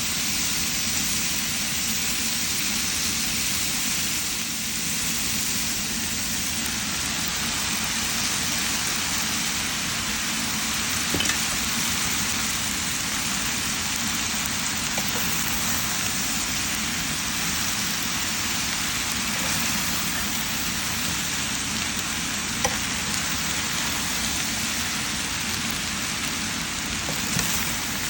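Chowmein with vegetables and chicken sizzling steadily as it stir-fries in hot oil, with a few brief knocks of a utensil against the pan.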